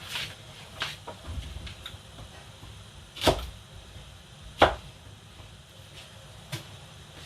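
Kitchenware being handled: a few sharp knocks and clinks, the two loudest about three and four and a half seconds in.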